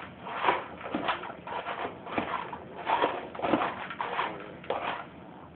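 Wet dog food being stirred into dry kibble in a bowl: a run of short scraping, squelching strokes, about two a second.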